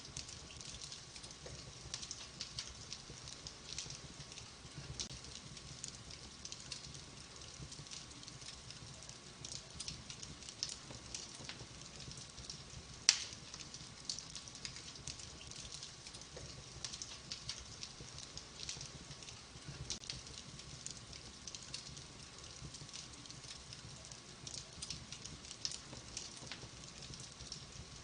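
Wood fire in a fireplace crackling, with frequent small pops and one louder pop about 13 seconds in.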